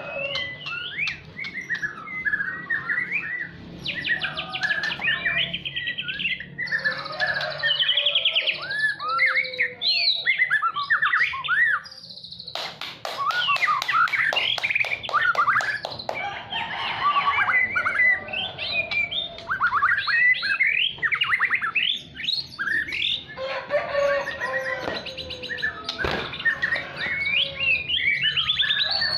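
A songbird singing a long, varied song of quick whistles, trills and sweeping notes, with a run of rapid clicking notes about halfway through.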